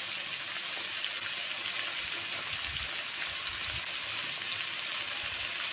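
Onion, garlic, ginger and cumin paste sizzling in oil in a karahi: a steady frying hiss with faint crackles.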